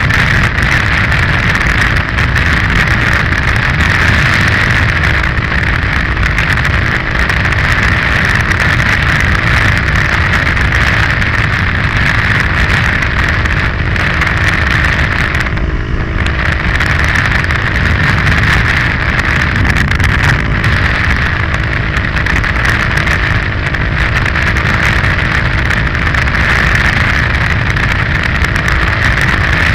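KTM 530 EXC-R single-cylinder four-stroke enduro engine running at steady cruising speed on a gravel road, heard onboard with heavy wind noise on the microphone. The sound dips briefly about halfway through, then carries on.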